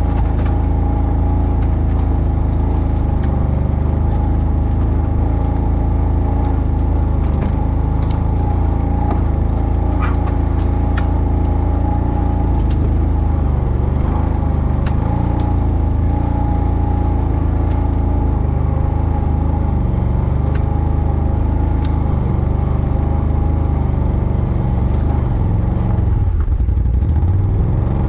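ATV engine running steadily under way, its note wavering slightly and shifting briefly near the end, with scattered sharp clicks and rattles over it.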